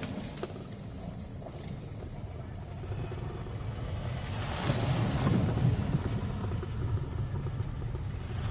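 A vehicle engine running steadily with a low rumble, with a rushing noise that swells and fades again about four to six seconds in.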